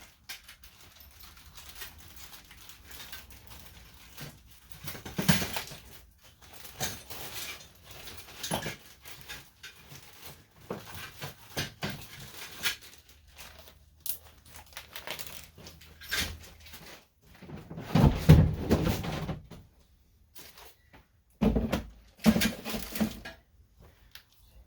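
Irregular rustling, clicks and knocks of car parts and bags being handled, loudest about eighteen seconds in and again a few seconds later.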